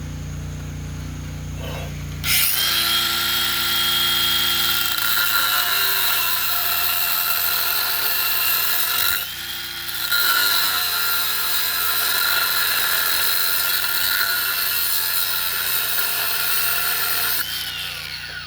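Power tool cutting steel pipe, spinning up with a whine and running for about seven seconds, stopping briefly and winding down, then running again for about eight more seconds before winding down near the end.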